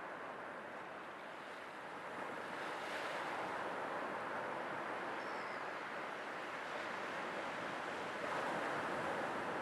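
Sea waves washing in, a steady rushing hiss that swells slightly about two seconds in and again near the end.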